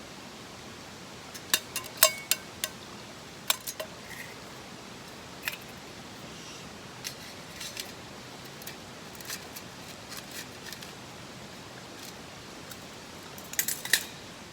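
Small metal camp gear being handled, with scattered sharp metallic clinks and taps, a quick cluster near the end, over a steady background hiss.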